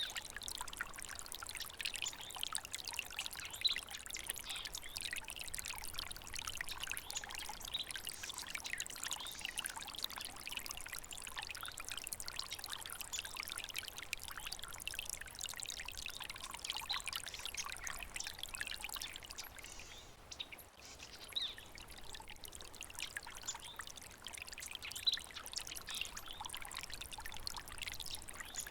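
Small stream trickling and babbling steadily, with a brief lull about two-thirds of the way in.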